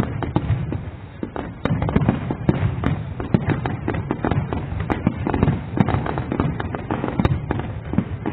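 Fireworks display: a rapid, continuous barrage of bangs and crackling shell bursts over a rumbling low boom.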